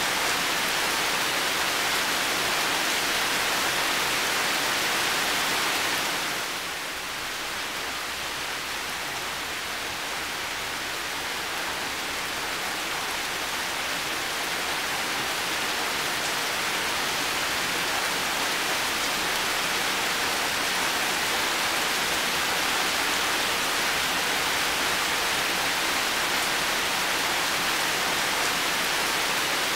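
Heavy rain falling steadily, a dense even hiss with no single drops standing out. About six seconds in it eases slightly, then builds back up over the next ten seconds or so.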